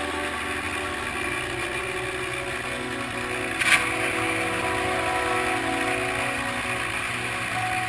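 Fishing boat's engine running steadily with a constant drone, with a single short knock about three and a half seconds in.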